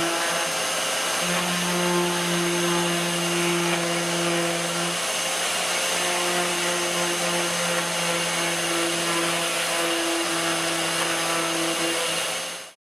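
A small electric motor running steadily with a hiss and a hum that drops and returns now and then, cutting off suddenly near the end.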